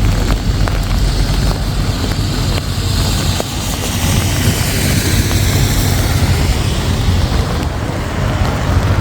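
City traffic on a wet road over a steady low rumble: a vehicle passes, its tyre hiss swelling about three seconds in and fading away near the end.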